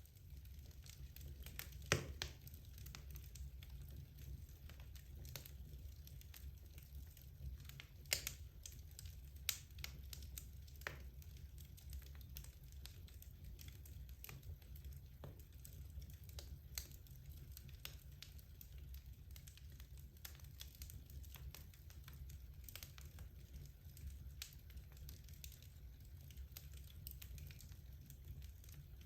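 Wood fire burning in a fireplace, crackling softly with scattered sharp pops: a loud one about two seconds in, a few more around eight to eleven seconds. A steady low hum runs underneath.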